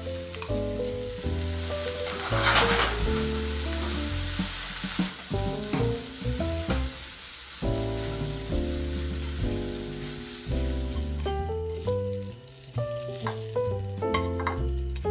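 Sliced onions and mushrooms sizzling in a nonstick frying pan as they are stirred with chopsticks, over background music with a steady bass line. Near the end the sizzle fades and a few light clicks are heard.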